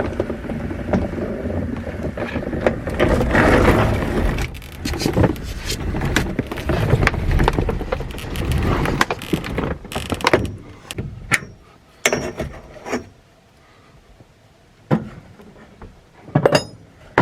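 Pop-up roof of a 1992 Skamper 060S truck camper being lowered by hand: dense rustling and handling noise with many clicks and knocks for about the first ten seconds, then a few single clunks and clicks as it settles.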